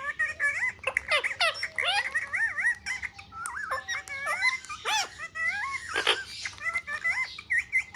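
Parrot chattering and whistling: a rapid run of warbling calls that wobble up and down in pitch, cut by a few sharp, louder squawks.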